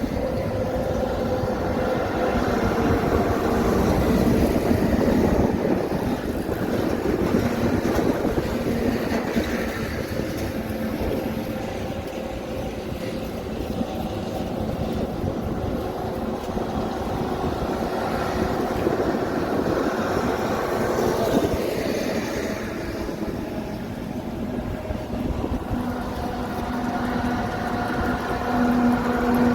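Heavy trucks driving past, a continuous rumble of engines and tyres that swells as vehicles go by, around 4 to 5 seconds in and again about two-thirds of the way through.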